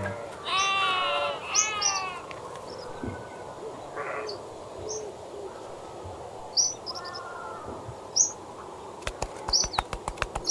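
Birds calling: two longer falling calls near the start, then scattered short high chirps, with a quick run of clicks near the end.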